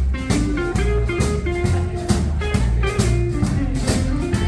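Instrumental break of a country-style song: a lead guitar melody over bass and a steady drum beat.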